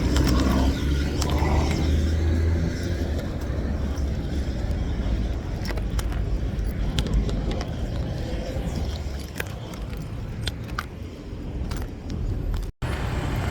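Street traffic noise: a car's engine rumble is strong for the first couple of seconds, then steady traffic noise with scattered small clicks and rattles. The sound drops out for a moment near the end.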